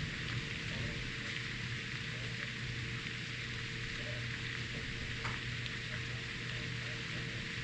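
Steady rain falling hard during a thunderstorm, an even hiss without pause, with a steady low hum underneath.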